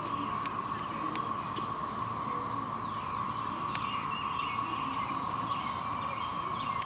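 Steady drone of a chorus of periodical cicadas, with a bird giving four short high chirps in the first half.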